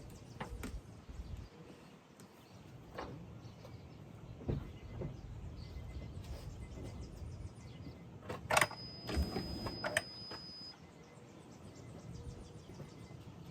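Scattered clicks, knocks and rustles of car interior trim and wiring being handled and pulled loose, with a louder clatter about two-thirds of the way through.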